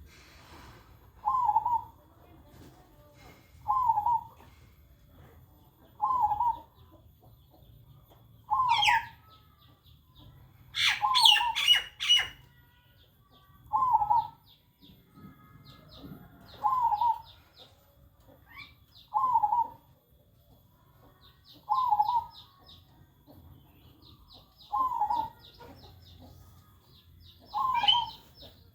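Perkutut (zebra dove) cooing its repeated song, one short coo phrase about every two and a half seconds. Higher chirps from other small birds come in between, with a louder flurry of them about eleven seconds in.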